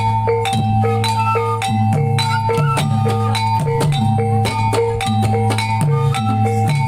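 Javanese gamelan music playing for a reog dance. Metal mallet instruments repeat a short melodic pattern over regular drum strokes and a sustained low tone.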